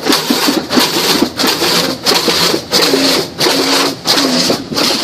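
Spinning cloth brushes of a PDQ ProTouch soft-touch car wash, slapping and scrubbing over the car in a steady rhythmic swish, about one and a half strokes a second, heard from inside the car.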